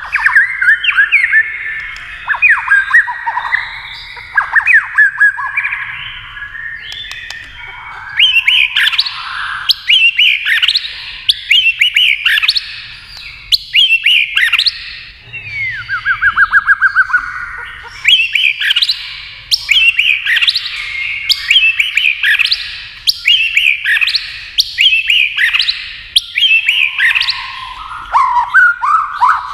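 White-rumped shama singing: loud phrases of rapid, varied whistles and sharp chattering notes, one to two seconds each with short pauses between. About halfway through, one phrase is a quick even trill of repeated low notes.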